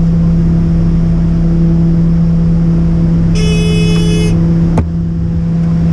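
A steady, loud engine drone, with a high electronic beep lasting about a second a little past halfway through and a sharp click just after it.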